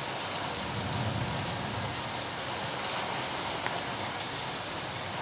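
Heavy rain falling steadily, an even hiss of rain on surfaces with the odd faint drip tick.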